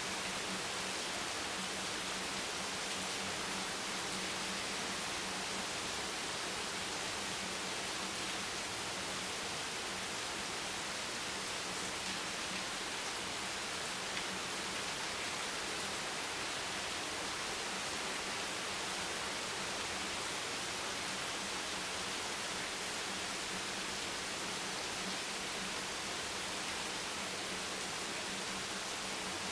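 Steady, unbroken rain hiss, an even wash of sound weighted toward the high end with no individual drops or changes standing out.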